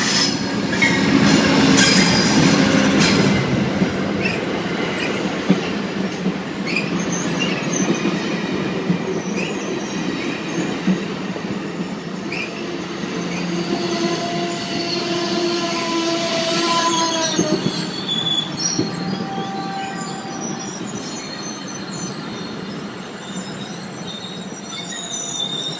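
Amtrak Pacific Surfliner passenger train pulling into a station, its wheels rumbling over the rails. Drawn-out metallic squeals rise and fade through the middle as the train slows.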